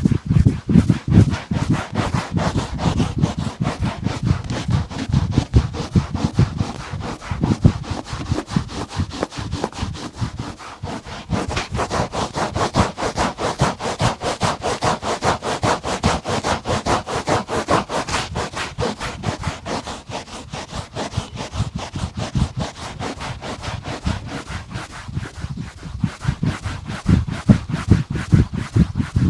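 Shoe brush scrubbing a leather boot in rapid, rhythmic back-and-forth strokes, heavier and duller at the start and near the end, brighter in the middle.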